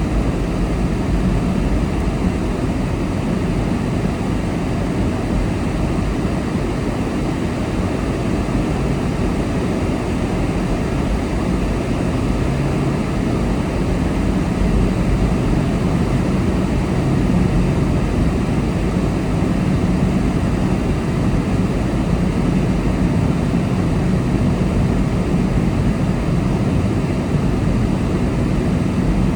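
Car being driven at a steady speed, heard from inside the car: a constant low engine hum with tyre and road noise and no sudden changes.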